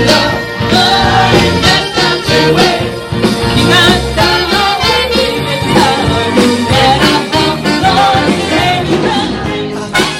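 Live band playing upbeat rock-and-roll dance music with drums and a singer.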